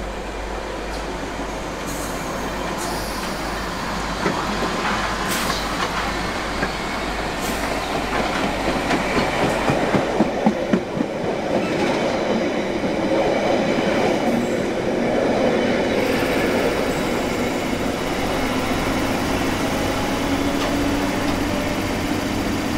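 London Underground track recording train running past on the Piccadilly line, growing louder as it comes in. Its wheels clatter over the rail joints in a quick run of clicks about ten seconds in, then settle into a steady rumble.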